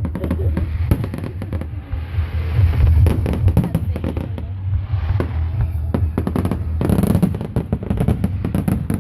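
Aerial fireworks going off in quick succession: a continuous run of bangs and crackles over low booming, densest about seven seconds in.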